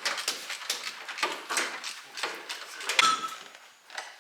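Irregular clicks, knocks and rattles of parts being handled, the loudest about three seconds in, growing quieter near the end.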